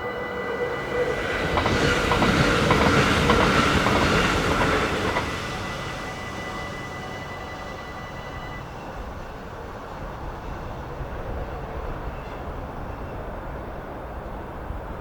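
A train passes over a Dutch level crossing, loudest about two to five seconds in, with clicks of the wheels over the rail joints. The crossing's warning bell rings steadily through the passage and stops about eight seconds in, leaving a low rumble.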